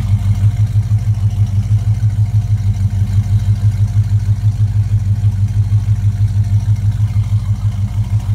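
1974 Ford Gran Torino's engine idling steadily at the rear of the car, its exhaust beating with an even, rapid pulse.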